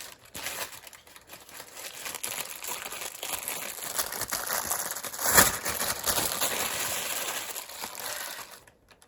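Packaging being handled and crinkling as accessories are taken out of a box, with one louder crackle about five and a half seconds in.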